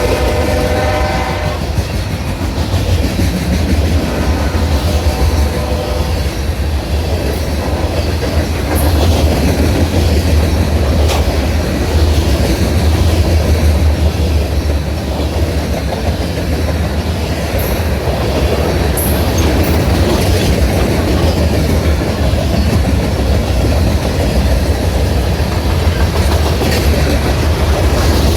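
Freight train horn chord sounding and dying away in the first second and a half, with a fainter blast about four to six seconds in. Under it, a CSX manifest freight rolls by in a steady heavy rumble, its wheels clacking over the rail joints, with a few sharp high clicks.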